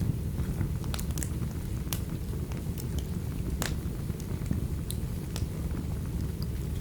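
Fireplace crackling, with sharp irregular pops and snaps, over a steady low rumble of a rainstorm.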